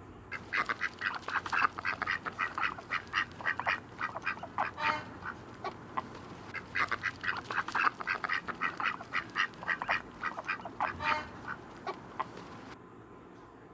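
Duck quacking in quick, rapid runs of short calls: two runs of about five seconds each, with a brief pause between them.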